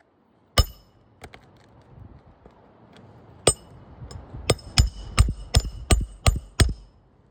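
A hammer driving roofing nails into a shingle: a few separate blows, then a quick run of about eight strikes near the end, each with a short metallic ring.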